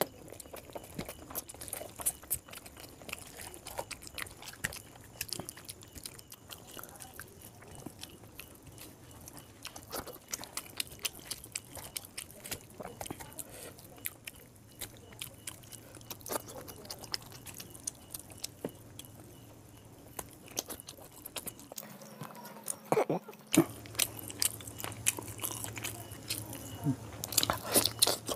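Close-up chewing of mouthfuls of chicken curry and rice eaten by hand, with many small wet clicks. A run of louder, sharper bites and crunches comes near the end.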